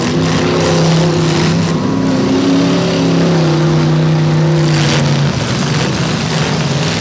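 Demolition derby cars' engines running hard, one held at steady high revs for about five seconds over the general engine noise, with a sharp bang about five seconds in.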